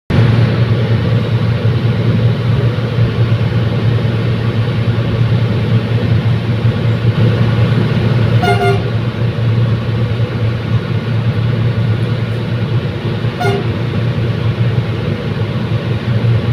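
Commuter train running with a steady, loud diesel engine drone and a strong low hum. Two short horn toots sound about eight and a half and thirteen and a half seconds in.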